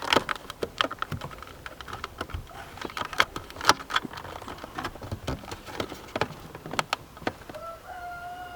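Irregular light clicks and taps of metal seat parts being handled, with a faint steady buzz starting near the end.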